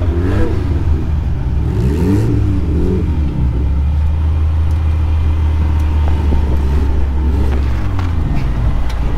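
Lifted Jeep Cherokee XJ's engine revving up and down under load as it crawls over rock, over a steady low rumble. The revs rise and fall a few times near the start and again near the end.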